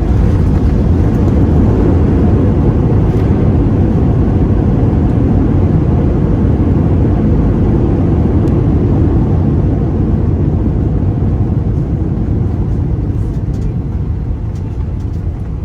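Airbus A320 cabin noise: a loud, steady rumble of engines and airflow that eases off gradually near the end.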